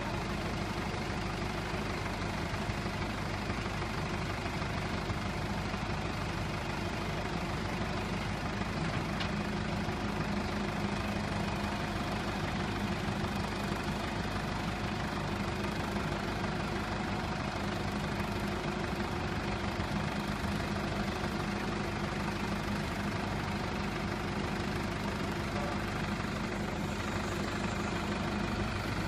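Wrecker truck's engine idling steadily at a constant speed.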